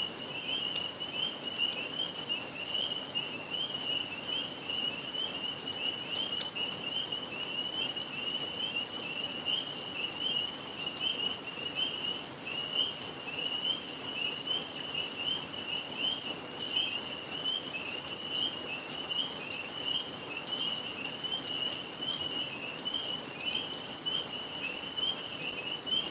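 A steady chorus of tree frogs trilling at a high pitch without a break, over the patter and drip of rain.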